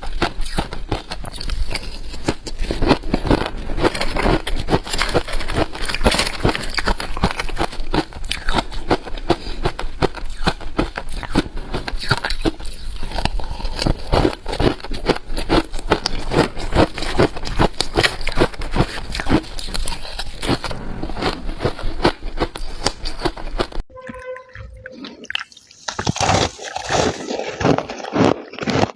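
Close-up crunching and chewing of freezer frost, a dense run of crisp crunches. About 24 seconds in the crunching drops away for about two seconds, then resumes.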